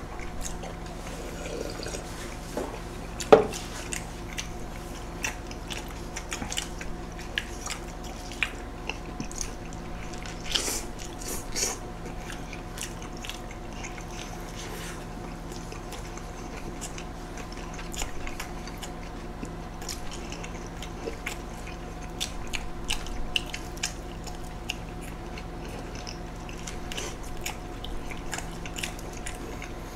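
Close-miked biting and chewing of big burgers: soft wet mouth smacks and small clicks scattered irregularly, with one sharper click about three seconds in. A steady low hum sits underneath.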